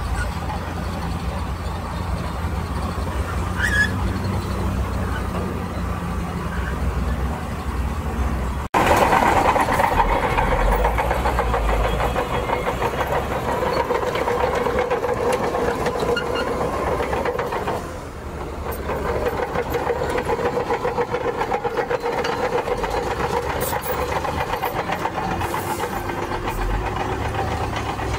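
Heavy earthmoving machinery at work, with diesel engines running. About nine seconds in the sound cuts abruptly to a louder engine.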